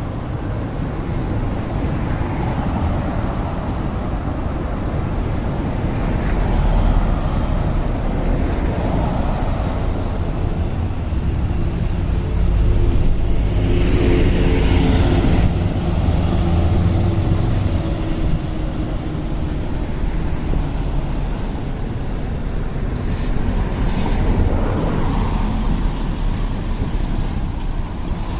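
City street traffic running steadily, with a vehicle engine passing close about halfway through, the loudest moment.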